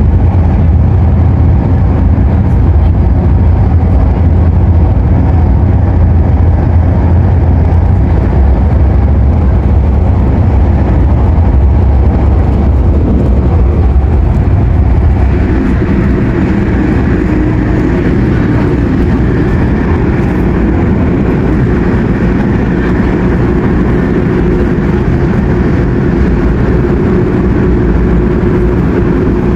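Cabin noise of an MTR Airport Express CAF train running at speed: a steady, loud rumble of the train on the track. About halfway through, the deep rumble eases and a higher rushing sound with a steady hum takes over.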